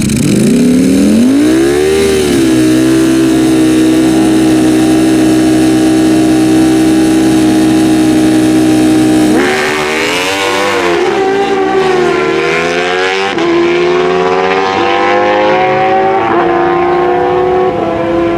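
Naturally aspirated Super Stock drag motorcycles' engines rev up and are held at a steady high pitch, then about nine seconds in they launch: the pitch climbs in steps with a drop at each upshift, about every two to three seconds, and the sound grows duller as the bikes pull away down the track.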